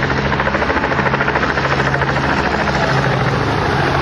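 Aircraft engine running steadily, with a rapid, even pulsing throughout.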